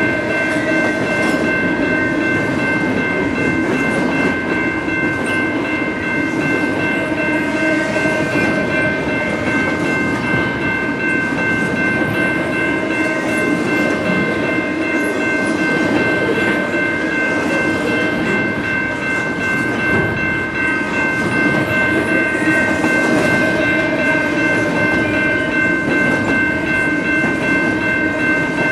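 Double-stack container cars of a CN intermodal freight train rolling past on steel rails: a steady, loud rumble of wheels on track, with several high-pitched tones held steadily over it throughout.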